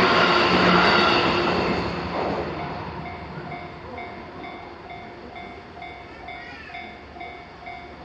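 JR Senseki Line train passing over a level crossing, its running noise dying away over the first few seconds. Through it and after it, the crossing's warning bell keeps ringing at about two strokes a second.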